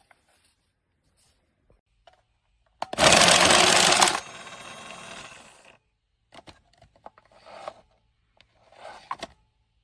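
Battery-powered automatic card shuffler mixing a deck: a loud rattling whirr of cards feeding through for about a second and a half, then the motor runs on more quietly with a thin whine for another second and a half. After that come scattered clicks and rustles of cards being handled.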